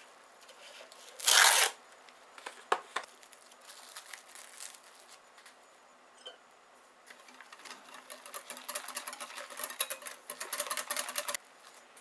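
Custard mixture being beaten by hand in a bowl: a long run of rapid scratchy ticks in the second half that stops abruptly, after a short loud rush and a few sharp clicks near the start.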